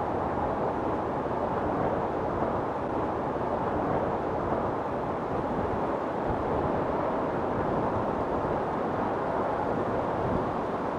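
Wind storm blowing steadily: a continuous rushing noise with no gusts standing out.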